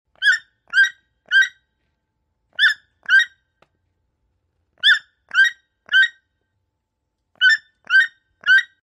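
An animal's calls: eleven short, high, squeaky notes, given in groups of two or three about half a second apart, with pauses of about a second between the groups.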